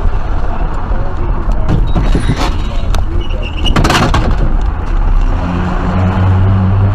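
Vehicle driving noise, a steady low rumble, with two short, sharp, louder noises about two and four seconds in, and a steady low hum coming in near the end.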